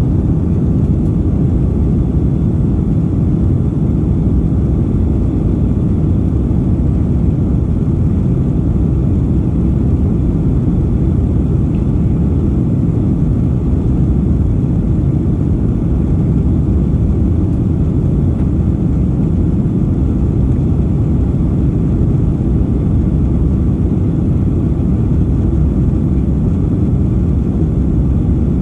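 Airliner cabin noise in flight: a steady, low rumble of the engines and rushing air filling the cabin, unchanging throughout.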